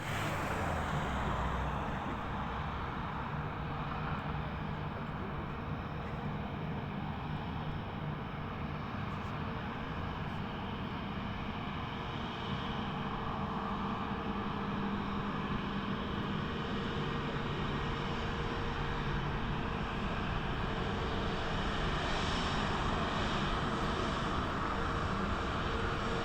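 Airbus A320neo airliner's jet engines running steadily, a continuous rush with a held whine, growing a little louder near the end.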